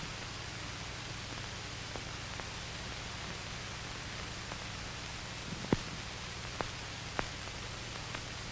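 Steady hiss and low hum of an old film soundtrack with no narration, broken by a few scattered short clicks, the loudest about two-thirds of the way in.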